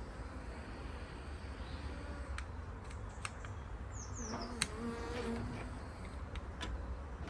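Honeybees buzzing steadily around an overcrowded nuc, with a louder, steadier hum for about a second near the middle. A few faint clicks, and one sharper click about four and a half seconds in.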